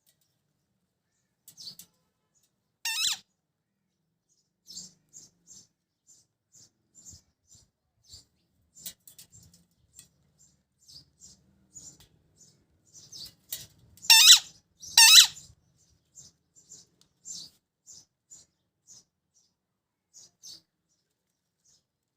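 Pet parrot making short, high chirps and squeaks throughout, with a loud, harsh screech about three seconds in and two louder screeches in quick succession a little past the middle.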